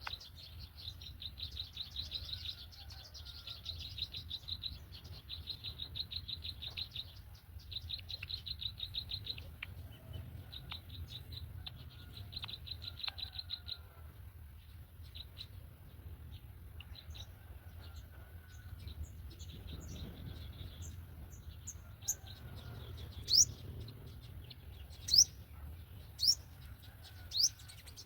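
Rapid pulsed chirping trills repeat for about the first half. Near the end come four loud, sharp bird calls, each sweeping quickly down in pitch.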